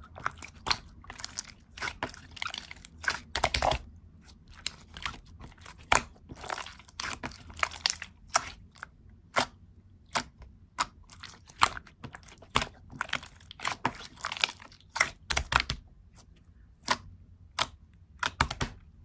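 Irregular close-up crunching and clicking, several sharp cracks a second with short pauses between clusters.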